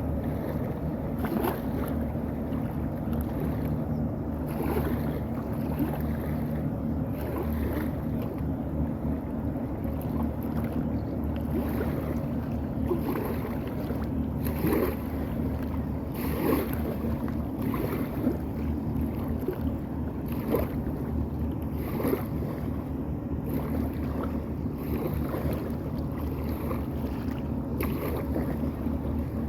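Boat engine running at a steady pace, with water splashing against the hull every second or two and some wind on the microphone.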